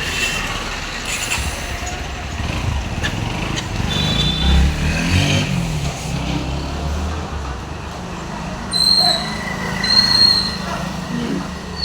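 Bajaj Pulsar NS125 motorcycle being ridden on the road, its engine running with a continuous rumble and a note that rises and falls around the middle. No knock comes from the rear monoshock, whose loose mounting bolt has just been tightened.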